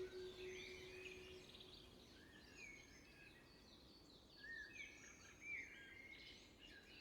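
Faint birdsong: several small birds chirping and twittering in quick rising and falling calls. A held, ringing tone fades away in the first second or two.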